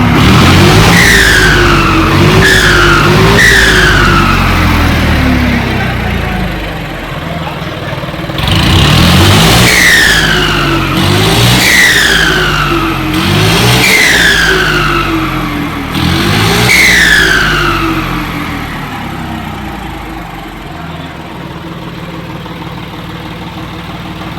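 Turbocharged tractor diesel engine blipped hard seven times, three in quick succession and then four more after a short lull, each rev followed by the turbo's high whistle falling in pitch as it spools down. The engine then settles to a quieter idle near the end.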